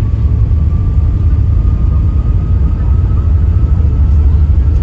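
Steady low rumble of an Airbus A380's engines and airflow heard inside the passenger cabin, with a faint whine held above it that creeps slightly upward in pitch.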